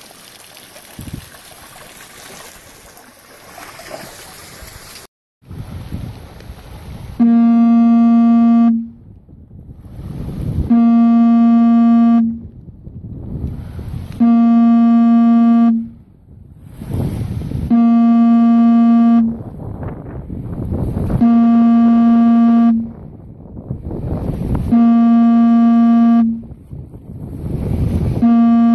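A horn sounds in long, steady, single-pitched blasts, each about a second and a half, repeating about every three and a half seconds, seven times. A rushing noise swells between the blasts. Before the horn begins there is a steady wash of water or rain noise, cut off suddenly about five seconds in.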